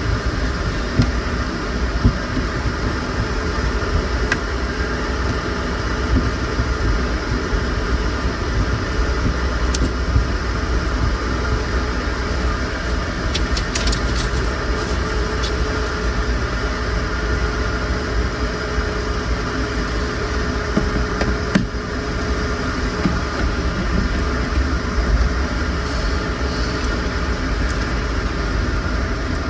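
Steady mechanical hum with a constant low rumble and several steady tones, and a few faint clicks scattered through it.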